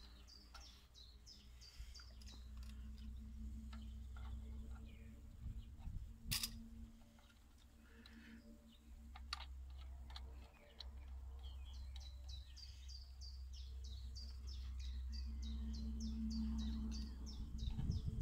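Small bird chirping outdoors: quick runs of short, high, falling chirps near the start and again through the last several seconds, over a low steady hum. One sharp click about six seconds in.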